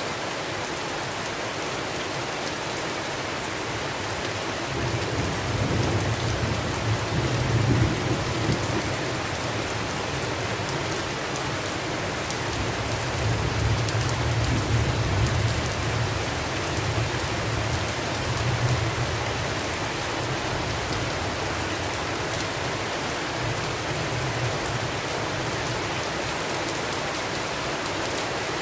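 Steady rain, an even hiss, with low rolling thunder rumbling up about five seconds in, again through the middle, and briefly later on.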